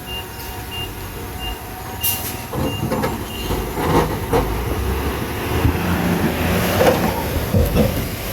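Bulldozer running and working, its diesel engine drumming steadily under many irregular metallic clanks and knocks that grow louder about two and a half seconds in. A series of short high beeps sounds during the first three seconds.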